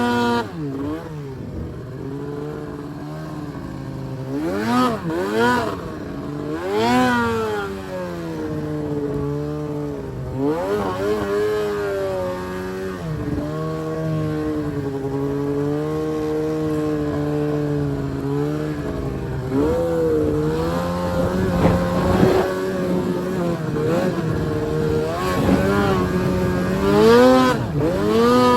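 Arctic Cat M1000 snowmobile's two-stroke engine revving in surges, its pitch rising and falling sharply, then running steadier with a wavering pitch, before climbing in pitch again in several bursts near the end.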